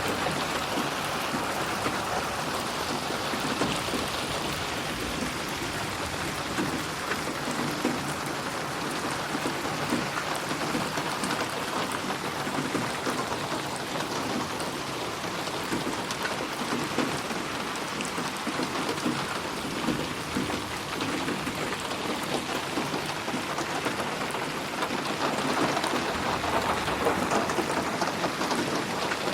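Steady rain falling, a continuous hiss of many drops, swelling slightly in the last few seconds.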